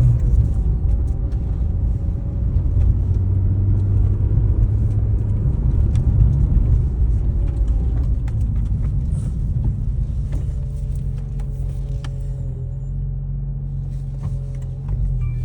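Porsche 996's flat-six engine idling. Its revs drop a little right at the start, then it holds a steady idle rumble that grows slightly fainter toward the end.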